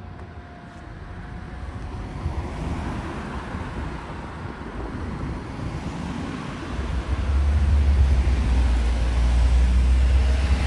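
A car on the street approaching and passing close. Its road noise builds gradually, then a heavy low rumble takes over for the last few seconds.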